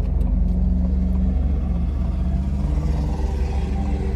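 Car engine and road rumble heard from inside the cabin of a moving car: a steady low drone, with the engine note shifting slightly in pitch.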